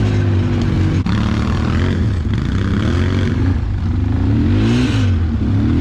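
ATV engine running with the throttle worked on and off, its pitch rising and falling several times over rough trail, with a single knock about a second in.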